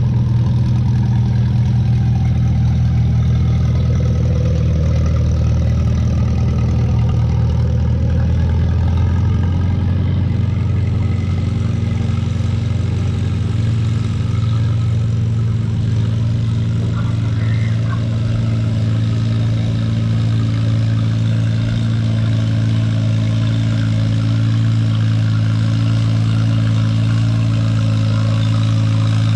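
Antique farm tractor engine running steadily under load as it pulls the weight sled down the track, its lowest note changing about ten seconds in.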